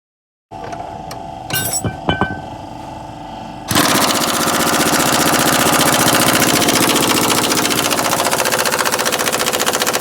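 A few sharp metal clinks, then a pneumatic impact wrench starts about four seconds in and hammers with a loud, rapid, steady rattle.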